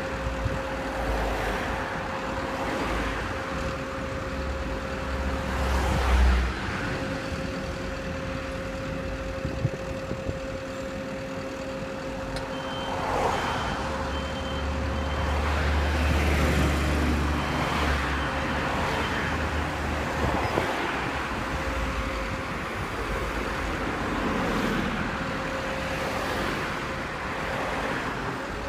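Street traffic: several vehicles pass one after another, over a steady hum and bouts of low engine rumble.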